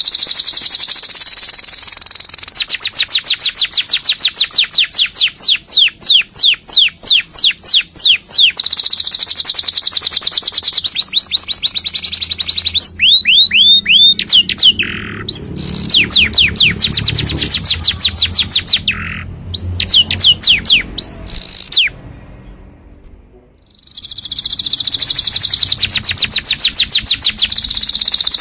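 Domestic canary singing a long, loud song of rapid trills and quickly repeated sweeping notes, changing from one phrase to the next, with a brief pause a little past three-quarters of the way through.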